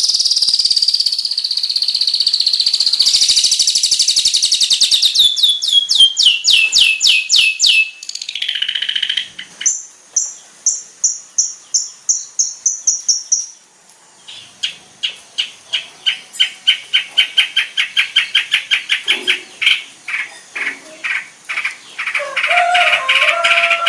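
Long-tailed shrike (cendet) singing a varied, mimicking song: a rapid high trill, a series of quick notes stepping down in pitch, then long runs of fast repeated chips, with a brief pause about midway and a harsher, fuller phrase near the end.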